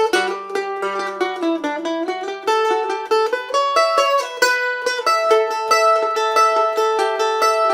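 Mandolin playing an instrumental tune at a quick pace, a steady stream of rapidly picked notes.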